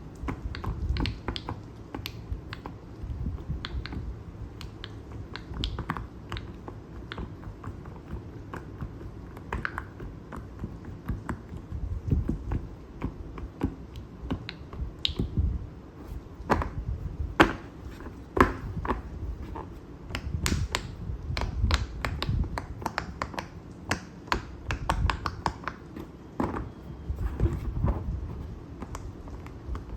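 Silicone pop-it fidget toy bubbles being pressed in, a long run of irregular small pops and clicks, some in quick clusters, over low rustling from hands handling the toy.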